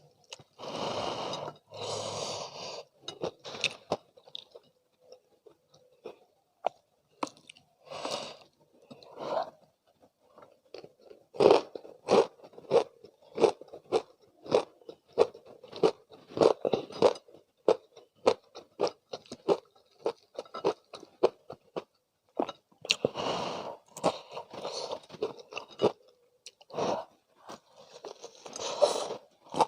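Close-miked biting and chewing of crispy McDonald's spicy fried chicken: loud crunches of the breaded skin, with steady chewing about two strokes a second through the middle.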